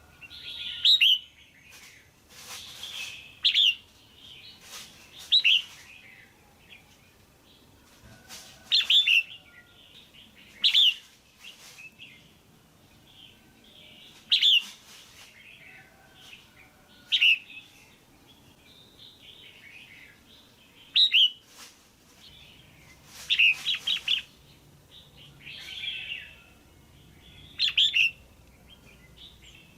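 Female red-whiskered bulbul calling: short, loud chirps repeated every one to three seconds, a few in quick clusters of two or three. It is the kind of call used to rouse a male bulbul or to pair birds.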